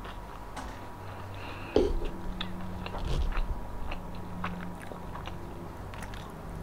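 Close-up mouth sounds of eating: chewing and crunching with scattered wet clicks, and one sharp knock a little under two seconds in.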